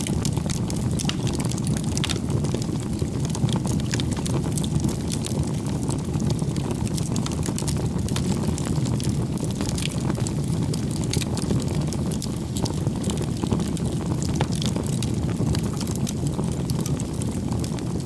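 Wood fire burning, with a steady low rumble of flames and frequent irregular sharp crackles and pops.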